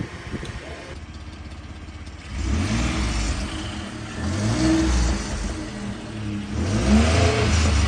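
Ford F-150's 3.5 L EcoBoost twin-turbo V6 exhaust being revved three times after a quieter couple of seconds, each rev a rise and fall in engine pitch.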